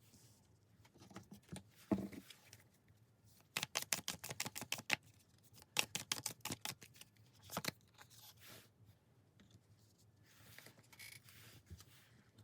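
Tarot cards being shuffled and handled: two runs of quick, crisp card clicks, after a soft thump about two seconds in.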